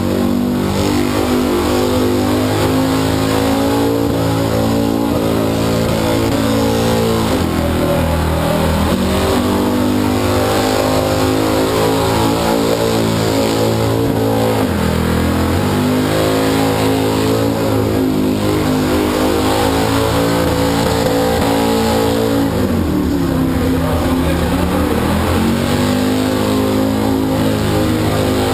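Burnout car's engine held at high revs as its rear tyres spin on the pad, the revs dipping and climbing back every seven seconds or so.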